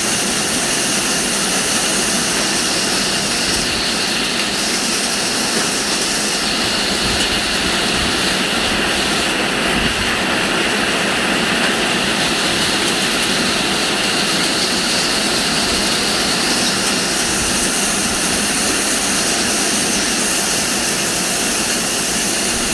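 Heavy rain falling steadily, a dense, even hiss with no single hailstones standing out.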